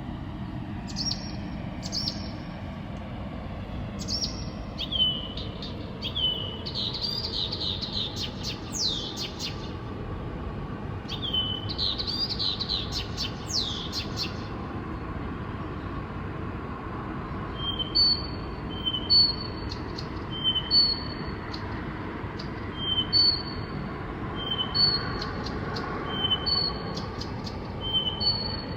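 A songbird singing. First come varied phrases of quick falling and rising whistles, then a two-note phrase, a high note followed by a lower one, repeated about ten times. Under it runs a steady low background rumble.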